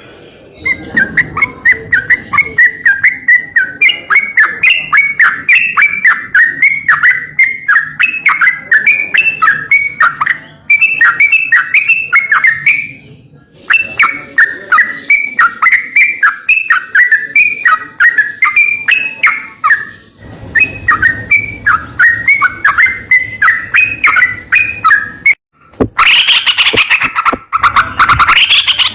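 A crocokan songbird singing a fast run of short, repeated chirping notes in long phrases broken by brief pauses. A louder, rougher sound cuts in near the end.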